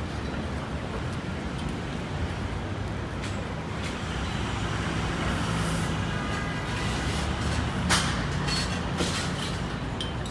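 City street traffic: a steady low rumble of passing vehicles, with a faint high whine in the middle and one sharp click about eight seconds in.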